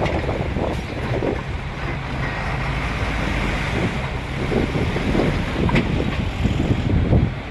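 Bulldozer's diesel engine running steadily, with wind on the microphone and a few faint knocks.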